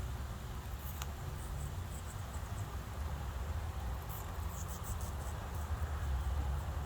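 Quaker parrot eating apple, making faint, short, high-pitched clicks and chirps in small clusters about a second in and again around four to five seconds, over a steady low rumble.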